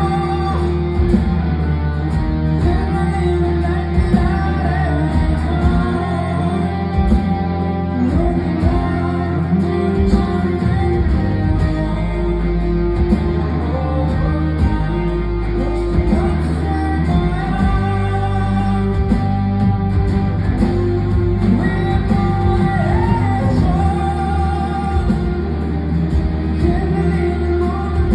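Live rock band playing a song: electric guitar and bass over a steady beat, with singing, heard loud through the venue's sound system.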